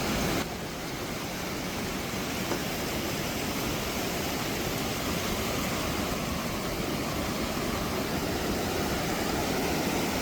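Steady rush of cascading water from natural waterfalls, an even hiss with no let-up, dipping slightly in level about half a second in.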